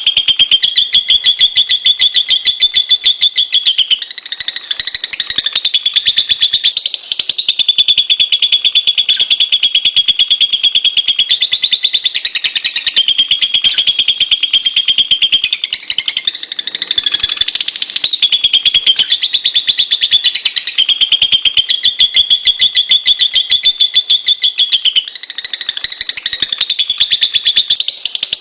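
Lovebird giving a long, rapid, shrill chattering trill, almost without a break, with short shifts in pitch every few seconds.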